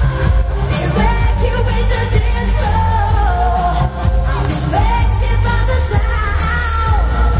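Live dance-pop through a concert sound system: a female lead singer holding and sliding between notes over a loud electronic backing with heavy bass.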